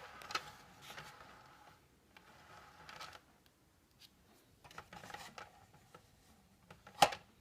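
Faint rubbing and scraping handling noises, with one sharp click about seven seconds in.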